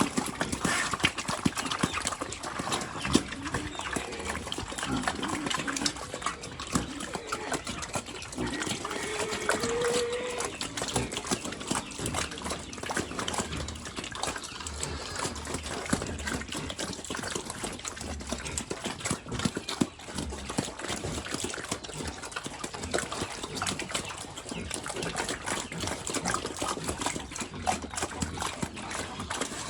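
Pigs eating wet feed of vegetables and rice: continuous chomping and slurping, with a few short pitched sounds in the first half.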